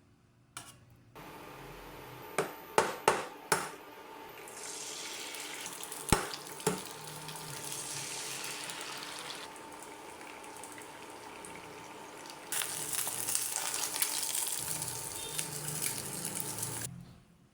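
Kitchen work sounds: a few sharp knocks and clatters, then stretches of steady hissing such as running tap water or food frying in a pan, the second stretch louder and cutting off near the end.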